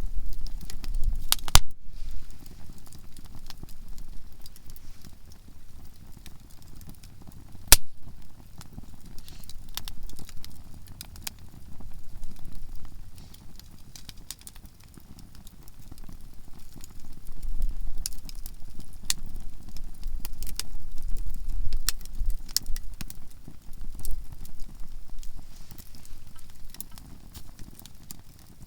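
Conifer firewood burning in a campfire, crackling with frequent sharp pops as the softwood bursts. One pop about eight seconds in is louder than the rest.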